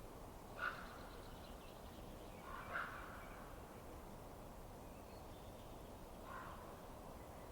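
Three short animal calls, each under half a second, one before the first second, one near three seconds and one past six seconds, over a faint steady hiss.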